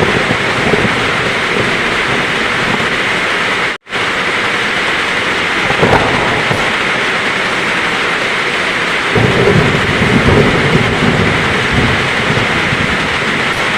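Heavy rain pouring steadily, with thunder rumbling low, most strongly for a few seconds past the middle. The sound cuts out completely for a split second about a quarter of the way in.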